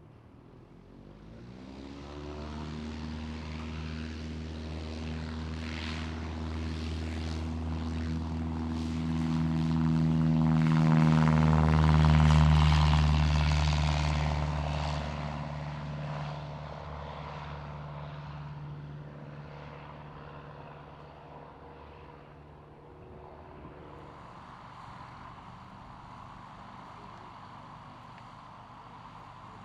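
Light propeller airplane's engine rising in pitch about a second in, growing louder as it passes close by about halfway through, then fading into the distance.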